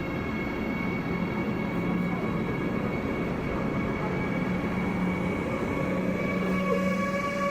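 Train running, with a steady whine of several tones over a rumble; the lower tone rises slightly near the end.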